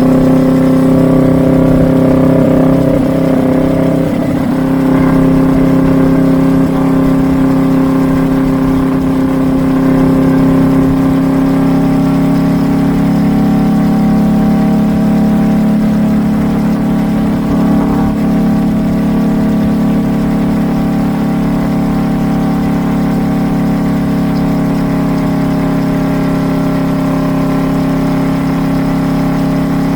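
Kawasaki Vulcan S 650's parallel-twin engine through a Truedual Valero dual twin-pipe exhaust, at highway cruising speed with a steady drone. The pitch shifts slightly a few seconds in and again about halfway.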